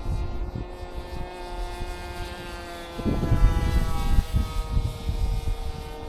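Electric motor and propeller of a Flite Test Space Fighter RC foam plane whining in flight, a steady pitched hum that shifts slightly about three seconds in. Wind buffets the microphone in low rumbling gusts, heavier from about three seconds in.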